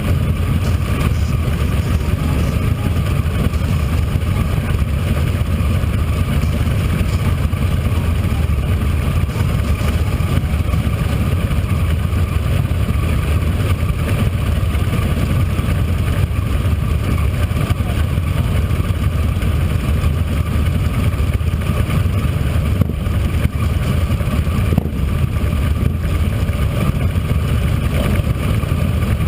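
Motorcycle engine running steadily, a constant low, loud sound with no revs or drops in level.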